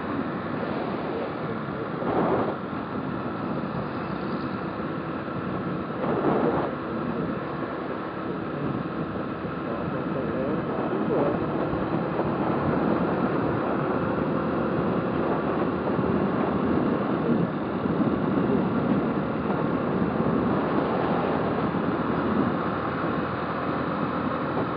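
Motorcycle engine running on the move, mixed with road and wind noise, with two brief louder swells about two and six seconds in and the sound growing a little louder about halfway through.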